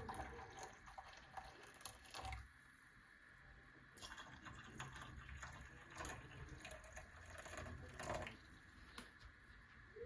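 Faint water at a sink, with drips and light clicks and knocks of things being handled.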